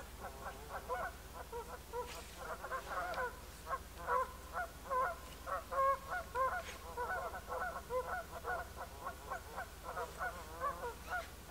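Birds calling over and over without a break, several short pitched calls a second overlapping one another.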